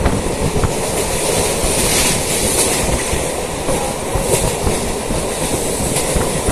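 Suburban electric local train running along the track: a steady rumble with the clatter of wheels over the rails.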